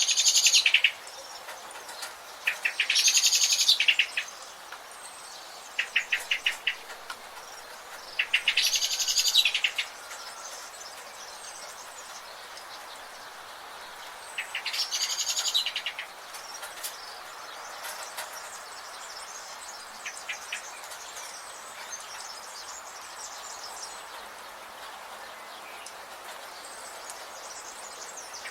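Birds calling in a rainforest: a high-pitched rapid trilled phrase about a second long, repeated four times in the first half, with shorter pulsed chirps between, over a steady hiss of forest insects.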